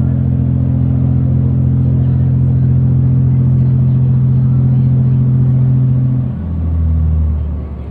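Ferry's engine running with a loud, steady low drone; about six seconds in the tone drops lower and the sound eases off.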